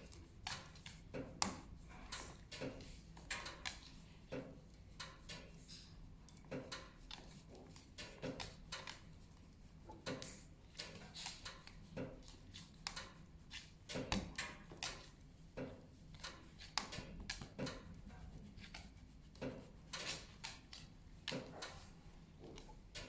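Wood fire crackling in a fireplace: irregular sharp snaps and pops, a few each second, over a faint low hum.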